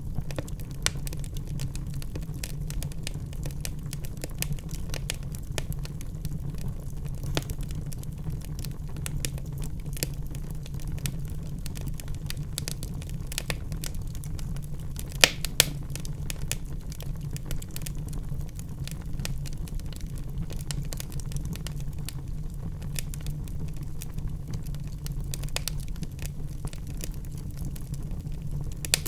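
Wood fire burning in a fireplace, crackling with frequent short sharp pops over a steady low rumble, and a couple of louder pops about halfway through.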